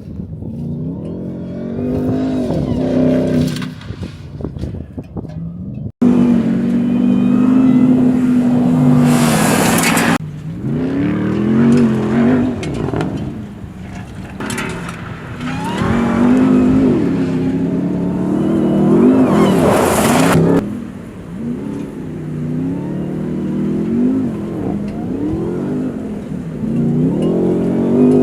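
Supercharged 6.2-litre HEMI V8 of a RAM 1500 TRX pickup under hard driving, its pitch climbing and dropping again and again through acceleration and gear changes. The sound breaks off abruptly about six seconds in and resumes. Two loud rushing bursts come at about nine and twenty seconds.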